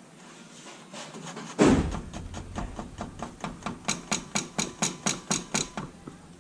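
One heavy knock, then a quick regular run of sharp metallic-sounding taps, about three to four a second, that stops a little before the end.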